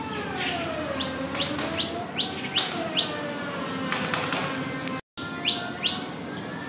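Bird chirping: a run of short, quick chirps, about three a second, over a low tone that slowly wavers in pitch. The sound drops out for a moment a little after five seconds in.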